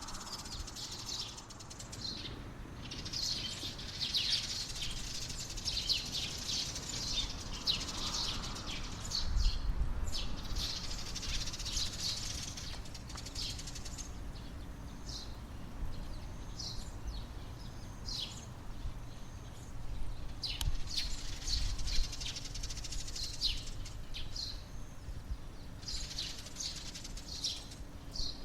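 A chorus of sparrows chirping: many short overlapping chirps, thickest for the first half and again about three-quarters of the way through, over a low steady rumble.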